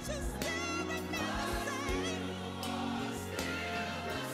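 Gospel choir song playing, voices holding wavering notes over steady bass.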